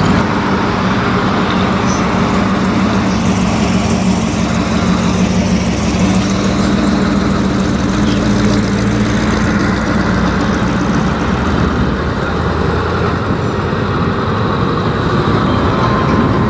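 A car engine running steadily close by, with a low, even hum that eases off about two-thirds of the way through.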